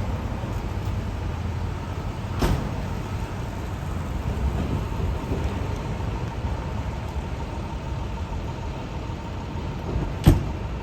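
Steady low rumble of road traffic and idling vehicle engines, with two short sharp knocks, one about two seconds in and a louder one near the end.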